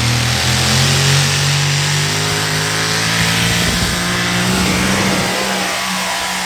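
Loud engine of a pulling truck running hard under load at high, steady revs, with a dense roar of exhaust noise; it eases off slightly toward the end.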